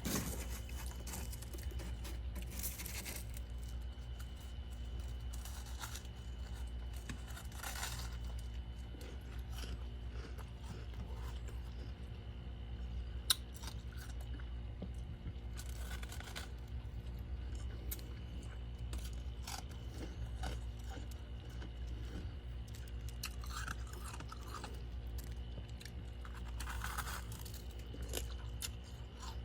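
Mouth-eating of powdery frost and ice chunks: a bite followed by crunching and chewing every few seconds, with a sharp click about halfway through. A steady low hum runs underneath.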